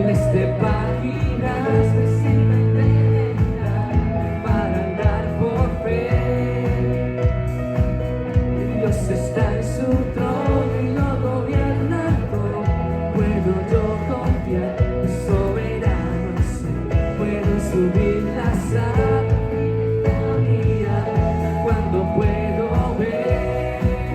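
Live band playing a song with a steady drum-kit beat, bass, electric and acoustic guitars and piano.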